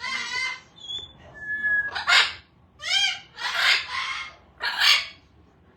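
Pet parrot giving a run of short, harsh squawks and chatter calls, about five in a row, with a brief thin whistle about a second and a half in.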